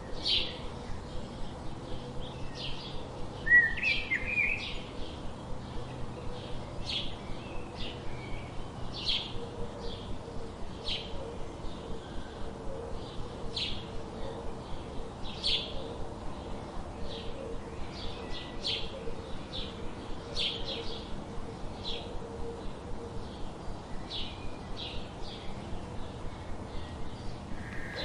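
Small songbirds chirping: a rapid, continuous run of short high chirps, several a second, with one louder rising call about three and a half seconds in.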